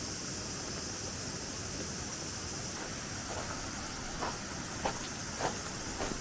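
Steady rushing of a flowing river, with a few faint light taps in the second half.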